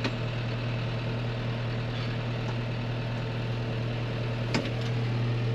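Tractor engine running steadily at an even pitch, with one short click about four and a half seconds in.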